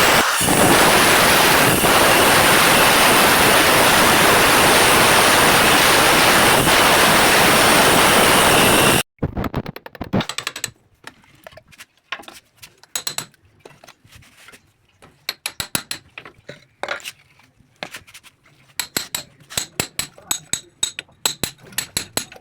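A power tool runs loudly and steadily for about nine seconds, then cuts off abruptly. A series of sharp taps and clicks follows, coming faster toward the end as the fitting work goes on.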